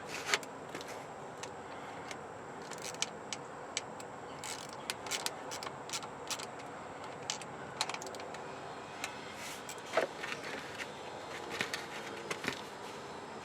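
Irregular metallic clicks and clinks of hand tools and hardware being handled while working on a truck starter's connections, over a steady background hiss.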